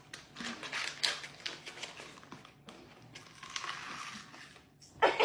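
Crunchy food being chewed close to the microphone: irregular crisp crunches and crackles.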